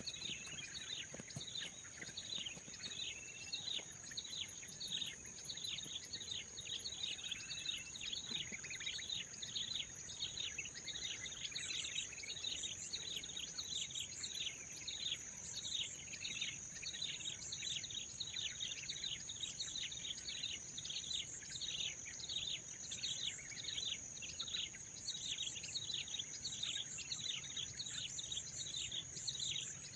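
Bird calls: short downward-sliding chirps repeated about twice a second, over a steady high-pitched insect drone.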